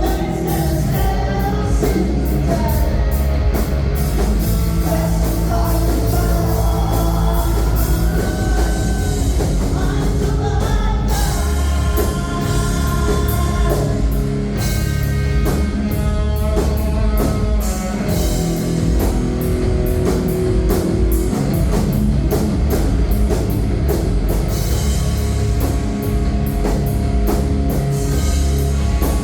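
Live rock band playing loud and steady: guitars, bass and drum kit, with a singer's voice over them.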